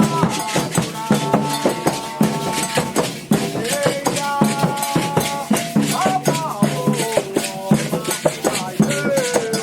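Candomblé ritual music: voices singing a chant in held notes that glide between pitches, over steady hand-drumming and a rattling shaker.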